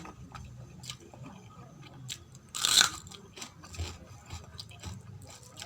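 Close-miked chewing of food in the mouth, with many small wet clicks and one loud crunchy bite a little past the middle.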